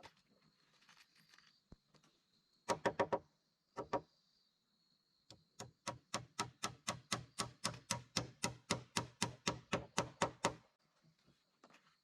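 Repeated dull strikes on wood, hut-building work: a quick group of four, one more, then an even run of about two dozen blows at roughly four a second that stops suddenly.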